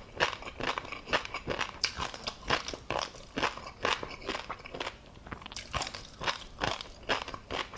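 Close-miked chewing of tobiko (flying fish roe): a quick run of crisp pops and crunches, a few each second, pausing briefly about halfway through.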